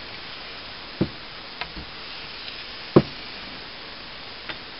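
A machete blade being worked on a fine 6000-grit wet whetstone: a steady soft hiss with two short knocks, about a second and three seconds in, and a few fainter ticks as the blade and stone are handled.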